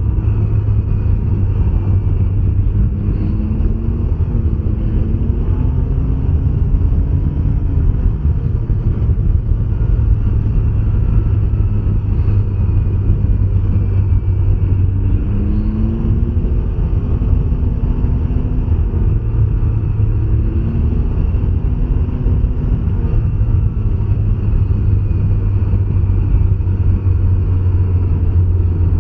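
Can-Am Ryker 900 three-wheeler's three-cylinder Rotax engine running under way, a steady low drone whose pitch rises and falls a few times with throttle.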